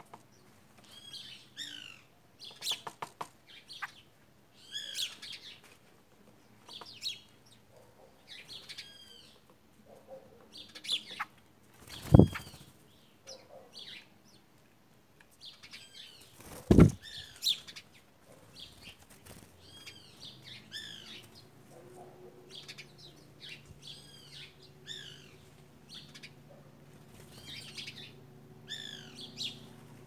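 Birds calling in short, repeated, bending high chirps, with two loud sharp thumps about twelve and seventeen seconds in.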